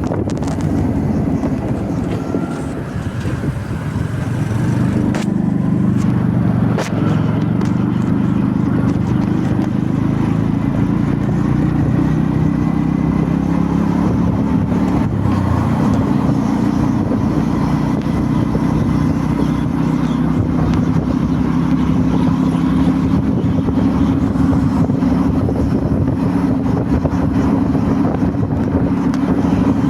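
Motorbike engine running continuously, its level and pitch dipping a few seconds in, then holding steady.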